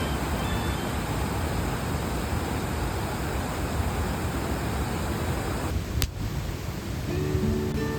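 Steady rushing noise of a flowing river. About six seconds in it cuts with a click, and acoustic guitar music comes in near the end.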